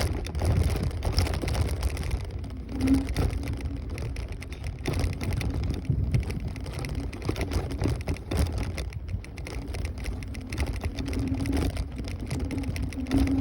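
Ride noise from a Kaabo Wolf Warrior 11 Pro electric scooter under way: a steady low rumble of wind buffeting the microphone. A faint motor hum joins it about three seconds in and again near the end.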